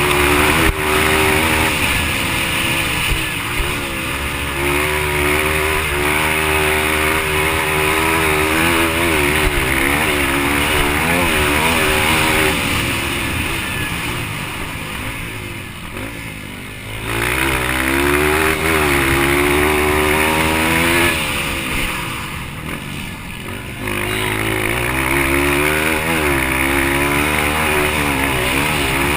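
Yamaha TT-R230's single-cylinder four-stroke engine revving hard, its pitch climbing and falling with throttle and gear changes. The throttle backs off twice, about halfway through and again a few seconds later, and then opens up again.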